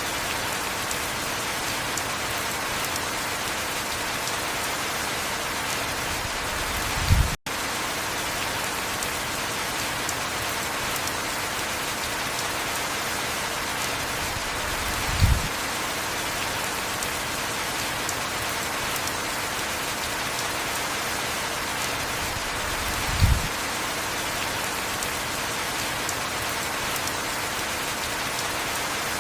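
Steady heavy rain, an even hiss of falling drops. A short low thud comes about every eight seconds, three times in all, and the sound cuts out for an instant about seven seconds in.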